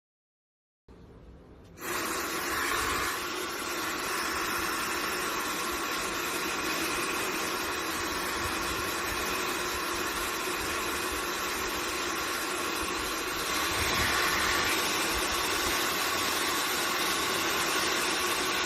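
Laifen SE high-speed hair dryer running: a steady rush of air with a faint steady whine. It starts softly about a second in, then jumps to a much louder, full-power level about two seconds in and holds there.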